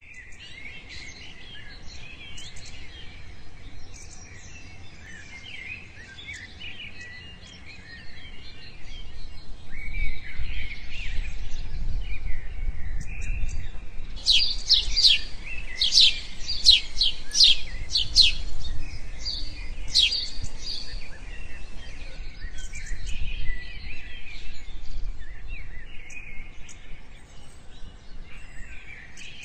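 Birds chirping and twittering, many short calls overlapping, with a run of loud, sharp repeated calls, about two a second, in the middle. A low rumble sits underneath through the middle part.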